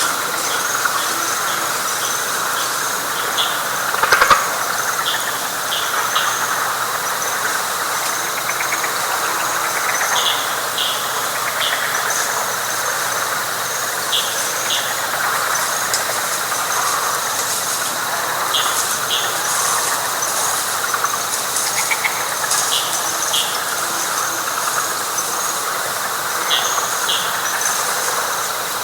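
Night frog chorus in wet pine flatwoods: a dense, steady wash of calls with repeated high chirps and short paired clicks over it. A single brief loud knock about four seconds in.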